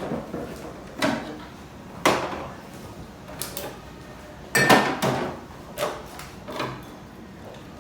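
Bottles and containers being set down and shuffled on refrigerator shelves: a series of separate knocks and clatters, the loudest cluster about halfway through.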